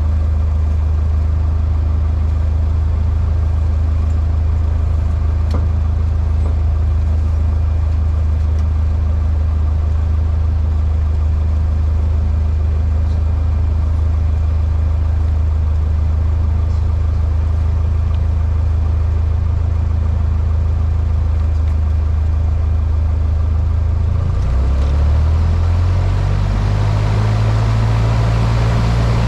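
Cessna 152's four-cylinder Lycoming engine and propeller droning steadily. Near the end the pitch rises and settles higher as power is added.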